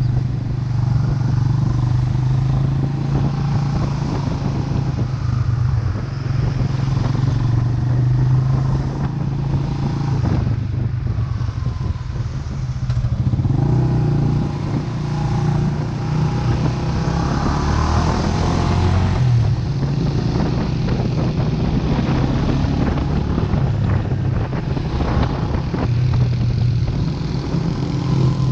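Vento Lucky 7 motorcycle engine running as the bike is ridden, with a steady engine hum and road noise. The engine note dips about halfway through and picks up again.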